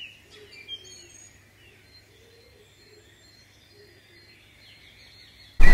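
Birds chirping, a few quick falling chirps in the first second or so, then only faint scattered calls over a low hiss. A sudden loud rush of noise breaks in at the very end.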